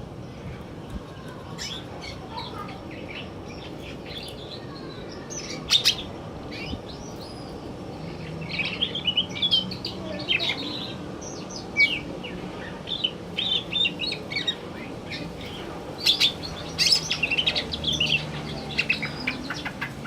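Male green leafbird (cucak ijo) singing: fast, varied chirps, trills and short whistled phrases. The song is sparse for the first few seconds and then comes in busier runs, with a few sharp loud notes.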